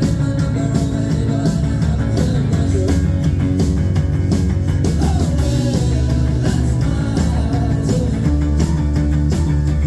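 A live rock band plays a song with electric guitars, bass and drums, a lead vocal singing over a steady beat.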